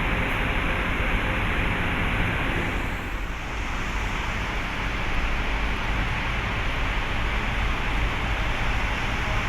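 Steady rumble and hiss of engines running in a ship's vehicle deck, dipping briefly about three seconds in.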